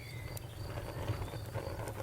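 Campfire crackling: irregular sharp pops and snaps over a steady low rumble of burning wood, with a high insect chirp pulsing evenly behind it.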